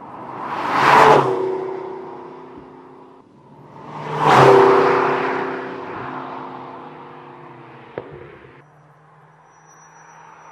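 The McLaren GT's twin-turbo 4.0-litre V8 revved twice, each rev dying away into a steady idle, with a single sharp pop about eight seconds in and a lower idle after it.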